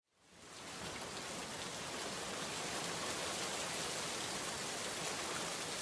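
Steady rain, a dense even patter of drops on a surface, fading in over the first second.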